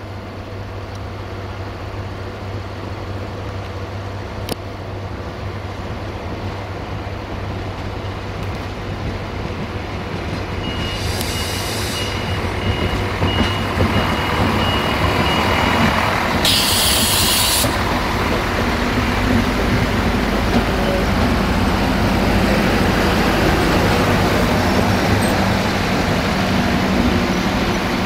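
Diesel multiple unit running along the station track, its engine drone and wheel noise building steadily louder. A thin high squeal sounds for several seconds partway through, then a short, sharp hiss of air comes about two-thirds of the way in.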